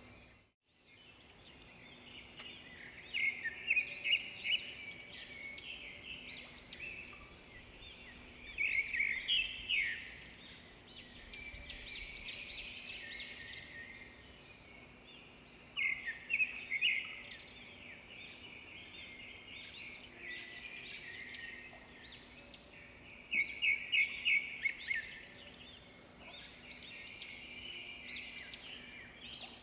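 Songbirds chirping and singing, with four louder bursts of quick repeated notes spaced several seconds apart and softer chirps between them.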